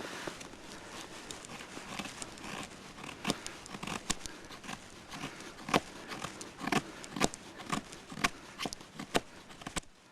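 Dry sticks snapping and crackling as they are broken for firewood: a run of sharp, irregular cracks, the loudest ones a little past the middle.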